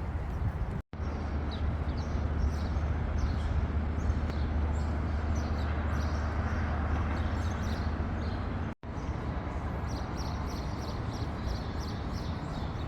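Outdoor ambience: a steady low hum under many small, quick bird chirps. The sound drops out briefly twice.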